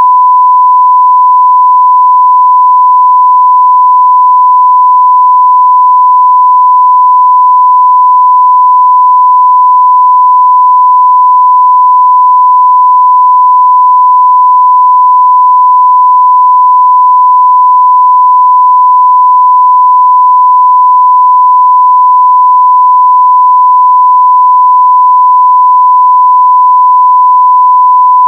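Continuous 1 kHz sine-wave test tone at full level, a single steady pure pitch.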